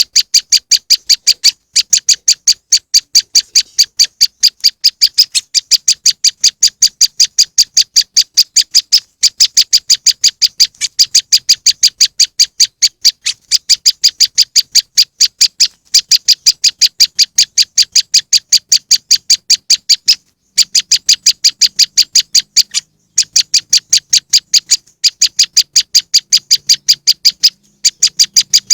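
Prenjak lumut (moss wren) calls played as a bird lure: a loud, fast, even series of high, sharp chip notes, about six a second, in long runs broken by brief pauses.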